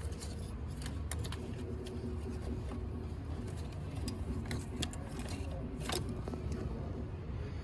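Hand and tool handling on an engine with the intake off: a handful of sharp clicks and light metallic rattles, spaced irregularly, over a steady low hum.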